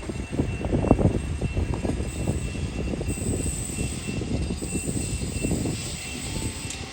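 A steady low rumble with irregular low knocks, over a faint steady high-pitched tone.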